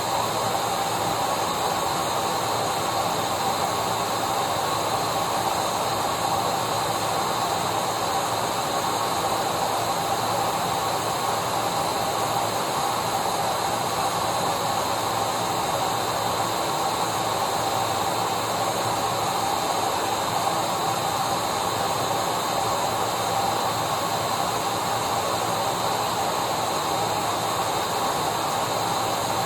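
Electric vacuum cleaner running at a constant speed: an even rushing hiss with a steady motor whine over it, never changing in pitch or level.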